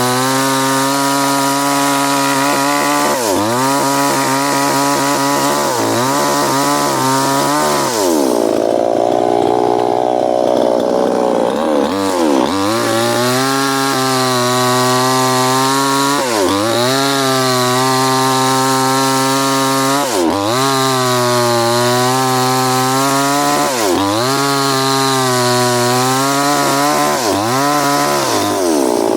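New West 598 two-stroke petrol chainsaw running at high revs, the throttle eased off and opened again about every three to four seconds. Its pitch falls lower for a few seconds about eight seconds in before it climbs back.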